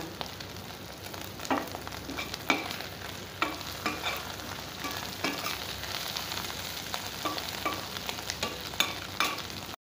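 Boiled taro-root pieces sizzling in hot oil in a stainless steel kadhai as they turn crisp, stirred with a spatula that scrapes and taps the pan about once a second.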